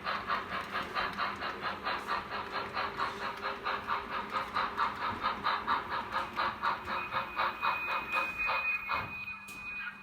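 Model train running on the layout with an even rhythmic pulsing, about five beats a second. A thin high steady tone joins about seven seconds in, and the pulsing fades just before the end.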